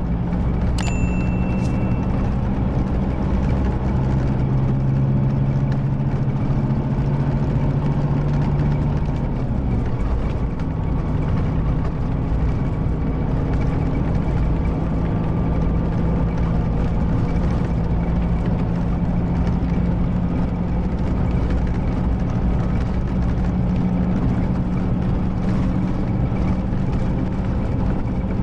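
Scania K310IB coach's diesel engine running steadily, its hum changing pitch about nine seconds in. A short high beep sounds about a second in.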